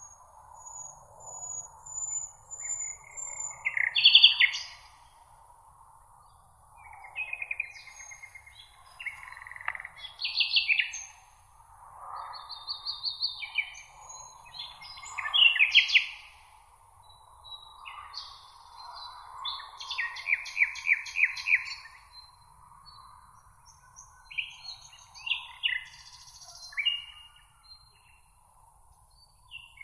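Several songbirds singing and chirping in turn: short varied phrases, quick trills and runs of rapidly repeated notes, over a steady soft background of meadow ambience.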